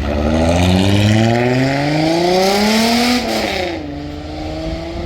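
A vehicle engine accelerating, its pitch climbing steadily for about three seconds, then falling back quickly and settling at a lower, steady note.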